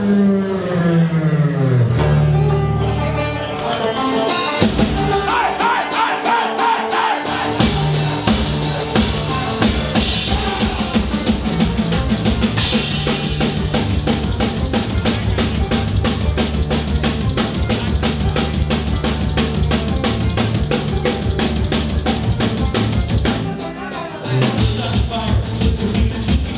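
Live band playing a loud, fast instrumental passage. It opens with pitches sliding downward over the first two seconds, then the drum kit comes in with a fast, driving beat a few seconds in and keeps going.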